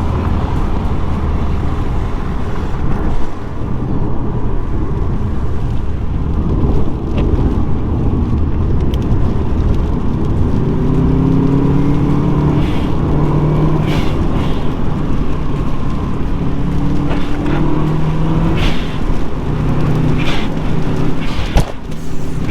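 Subaru Impreza WRX's turbocharged flat-four engine running under way, with tyre and road noise. In the second half its revs rise and fall repeatedly as it pulls through the gears, with a few sharp clicks.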